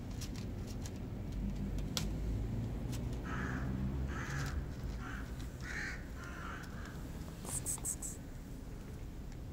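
A bird calling: a run of about six short, harsh calls in quick succession, starting about three seconds in.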